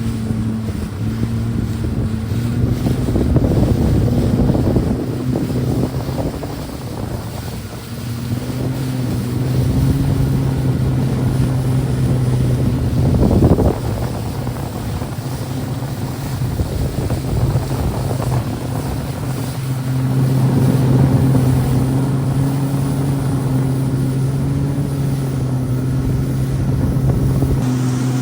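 Jet ski engine running steadily at speed, its pitch shifting a little, with wind buffeting the microphone and water rushing. A brief loud rush of noise comes about halfway through.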